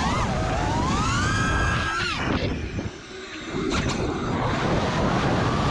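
Brushless motors of a 5-inch FPV freestyle quad (RcInPower Smoox 2306.5) whining, their pitch rising and falling with the throttle: climbing over the first second and a half, dropping sharply about two seconds in, easing off briefly, then holding steady again. A low rumble of wind noise runs underneath.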